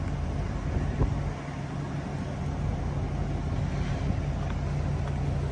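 Plow truck's engine idling steadily, a low even drone with some wind on the microphone.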